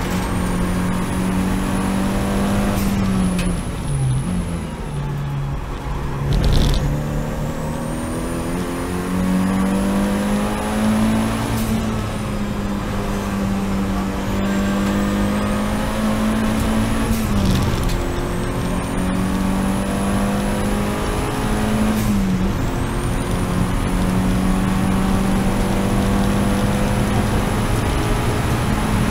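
Seat Leon race car's engine running hard at high, mostly steady revs. Its pitch drops away about four seconds in and climbs back, with brief dips again twice near the end. A thin high whistle rises after each dip.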